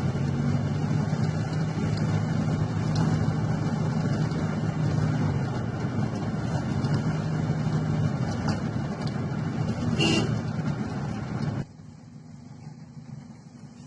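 Toyota Corona Select Saloon on the move: a steady engine drone under road noise, with a brief sharp higher sound about ten seconds in. Near the end the noise drops suddenly to a much lower level.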